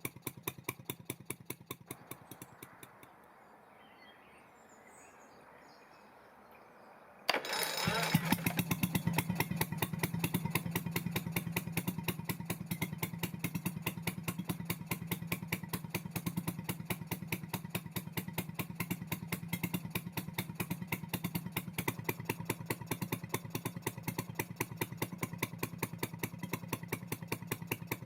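1955 Stuart Turner P5ME single-cylinder two-stroke marine engine running, then slowing and stopping within the first few seconds. After a few seconds of quiet it is started on its original electric starter about seven seconds in, catches at once and settles into a steady, rapid firing beat.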